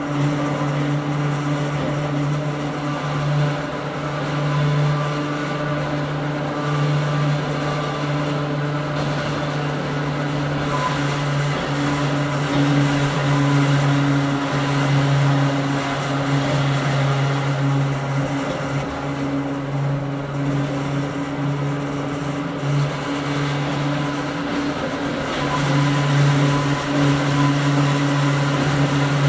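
Hakone Tozan Railway Moha 1 electric railcar running, heard from inside the car: a steady low hum from its nose-suspended traction motors and gearing over wheel and rail noise.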